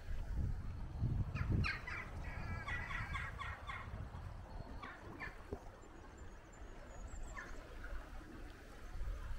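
A bird calling a quick run of harsh, repeated notes, about two to four seconds in, over a steady low rumble by the river.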